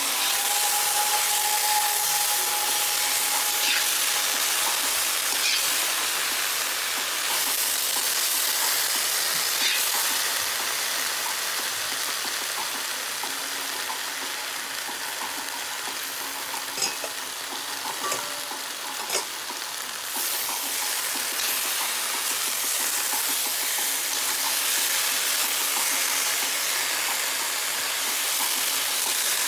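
Diced potatoes with cumin seeds frying in hot oil in a pan: a steady sizzle, with a few sharp clicks a little past the middle.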